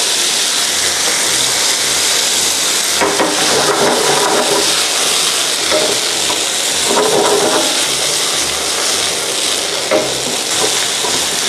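Ground chicken and diced potato sizzling steadily in hot oil in a nonstick frying pan while being stir-fried with a wooden spatula.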